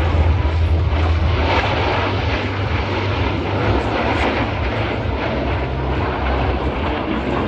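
Zivko Edge 540 aerobatic plane's six-cylinder Lycoming engine and propeller running loud and steady, a deep drone with a wide rushing hiss over it.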